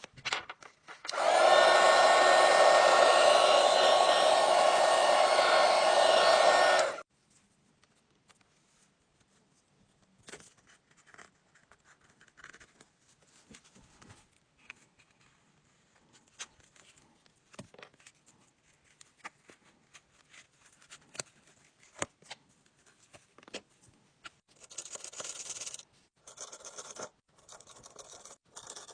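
Hot-air heat gun blowing steadily for about six seconds, starting about a second in and cutting off suddenly, as used to soften a phone's glued panel. Then scattered light clicks and scrapes of small tools on the phone, with short rasping bursts near the end.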